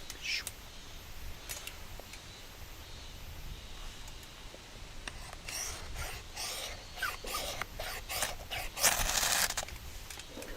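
Rustling and scraping of things being handled, in short bursts that grow busier over the second half and are loudest near the end.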